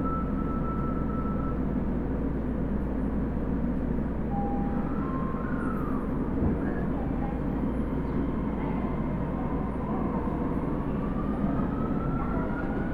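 Osaka Metro 30000 series subway train running, heard from inside the car: a steady rumble of wheels on rail, with the whine of its Hitachi SiC-VVVF inverter motors climbing in pitch over the last few seconds as the train picks up speed.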